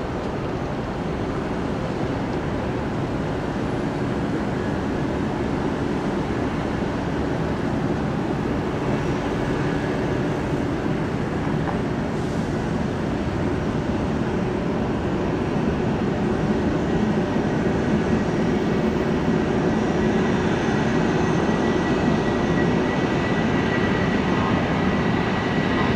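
Jet airliner's engines running at takeoff thrust: steady jet noise that slowly grows louder, with a thin high whine coming in over the second half.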